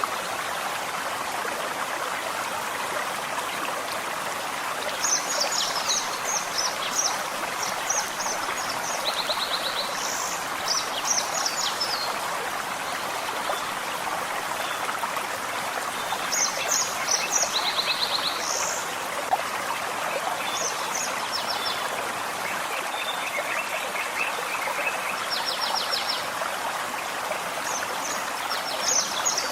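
Gentle forest stream babbling steadily, with small songbirds singing short high chirping and trilling phrases every few seconds over it.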